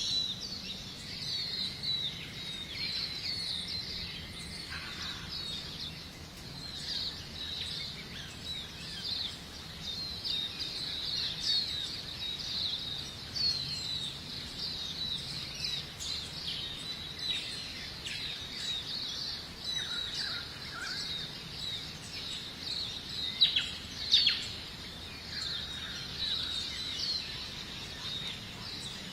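Many small birds chirping in a dense, continuous chorus of short high calls, with two louder calls about three-quarters of the way through.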